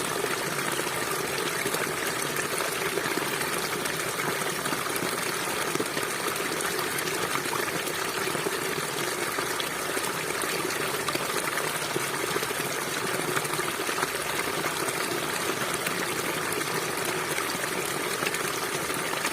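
River water flowing, a steady, even rush with no let-up.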